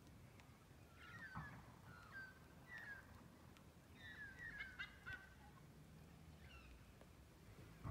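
Birds calling faintly: scattered short calls that fall in pitch, with a quicker run of calls a little past the middle.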